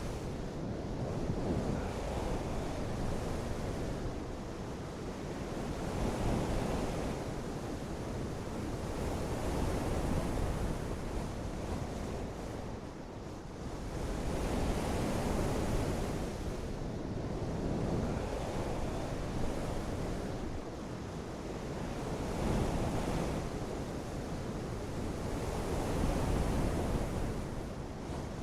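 Continuous rushing noise of water and wind, with no distinct drops or strokes, swelling and easing every two to three seconds.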